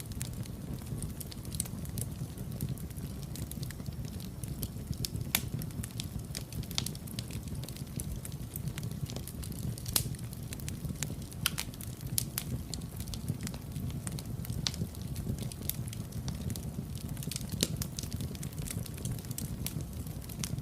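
Wood fire burning in a fireplace: a steady low rumble of flames with frequent irregular sharp crackles and pops, one louder pop about halfway through.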